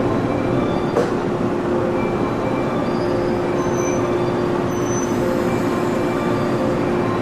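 Electric multiple-unit commuter train pulling slowly out of the platform, running with a steady hum and rolling-wheel noise. A single click about a second in.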